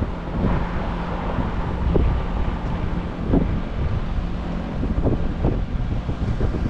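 Amana ALZS4B 4-ton heat pump outdoor unit running with a steady low hum, largely covered by wind buffeting the microphone.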